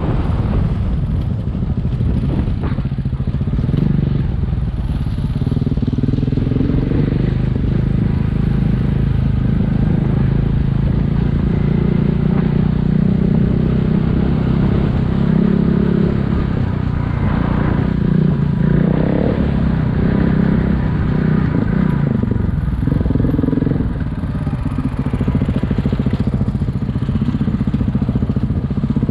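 Single-cylinder adventure motorcycle engine running steadily under way, its pitch shifting up and down with the throttle.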